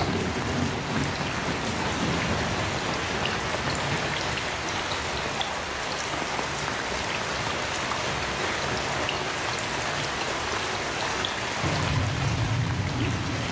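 Heavy rain falling steadily, with thunder rumbling low: one roll fading in the first second and another building near the end.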